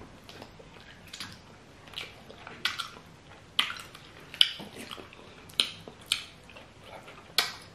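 Loud open-mouthed chewing of fufu and peanut soup with meat, with sharp wet lip smacks about every half second to second. The smacking is put on on purpose as a messy-eating prank.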